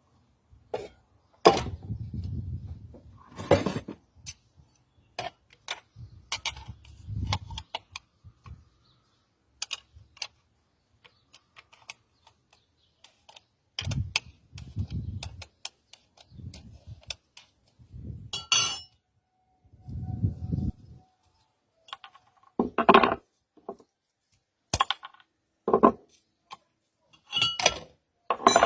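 Metal pressure cooker and its parts being handled: irregular clinks and knocks of metal on metal, some ringing briefly, with a few duller thuds between them.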